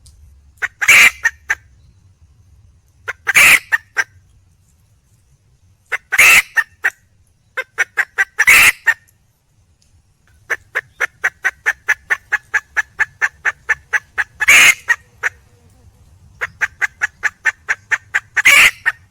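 Red junglefowl hen calling for a mate: a loud, short call every two to three seconds, with runs of rapid clucks in between at about four a second.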